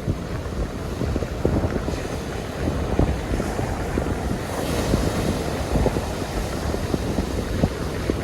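Wind buffeting the microphone over the wash of ocean surf, with a steady hiss and frequent low gusty thumps; the hiss swells briefly about halfway through.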